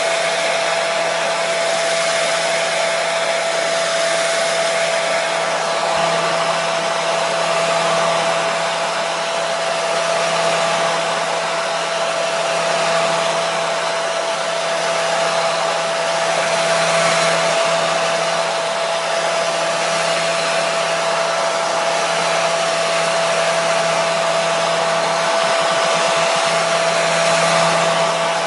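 Hair dryer running steadily: a continuous blowing rush with a steady motor whine and low hum.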